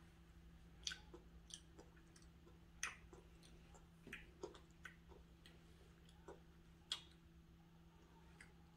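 A toddler chewing cake: soft, wet mouth clicks and smacks every second or so, the loudest about one, three and seven seconds in.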